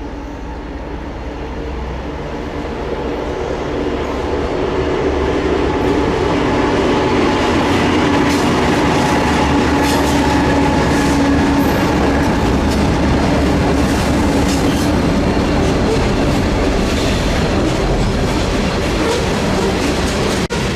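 CN freight train rolling past at close range. The rumble grows louder over the first few seconds and then holds steady, with repeated wheel clicks over the rail joints.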